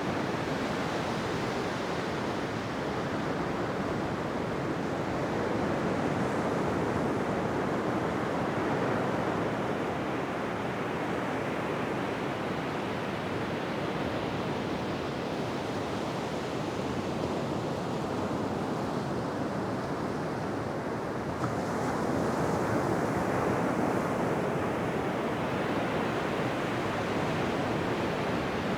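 Ocean surf washing continuously onto a beach, a steady rushing hiss that slowly swells and eases. The surf grows louder around a quarter of the way in, and again with a sudden lift about three-quarters of the way through.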